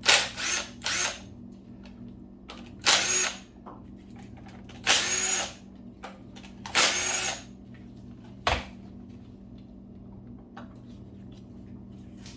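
Power drill or driver run in five short bursts, each under a second with a high whine, as bolts are backed out during an engine teardown. A single sharp knock comes about 8.5 seconds in.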